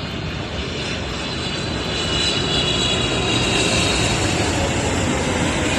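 Airliner's jet engines passing: a steady rush of engine noise with a faint high whine, growing louder about two seconds in.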